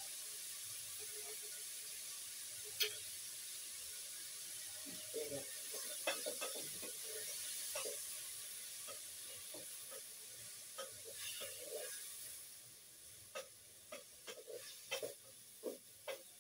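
Onions and garlic sizzling in oil in a cooking pot, a steady hiss that fades about twelve seconds in, with scattered light clicks and knocks of utensils against the pot.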